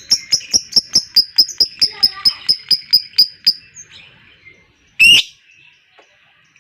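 Lovebird giving its long rapid chattering trill ('ngekek'): sharp, even, high notes at about five a second that die away about three and a half seconds in. About five seconds in comes one loud harsh call, with faint chatter from other birds underneath.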